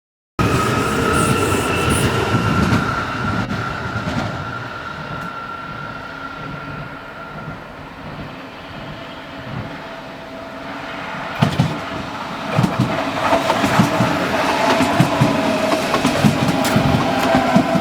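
Trains passing on the tracks. At first a steady high whine fades away; then, about eleven seconds in, another train draws near, its wheels clattering over rail joints and growing louder.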